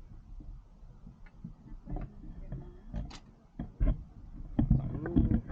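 Irregular knocks and clicks of objects being handled, sparse at first and becoming louder and more frequent in the last second and a half.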